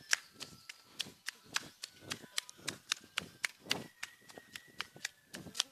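Running footsteps slapping on a wet street, an even beat of about three to four steps a second.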